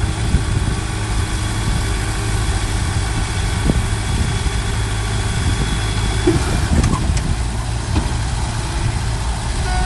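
Heavy diesel engine of earthmoving equipment running steadily at low speed, with strong low-pitched engine sound and even loudness throughout.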